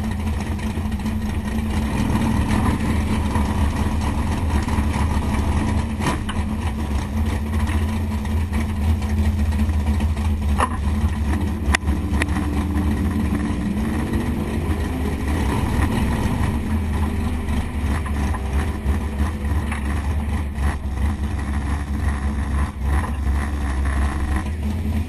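The 468 cubic-inch big-block Chevy V8 of a drag-race Malibu runs at a steady, low-speed lope. Its note rises briefly a few times around the middle.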